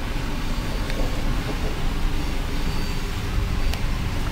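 Steady low rumble of a passenger train carriage running along the track, heard from inside the carriage, with a faint click about a second in and another near the end.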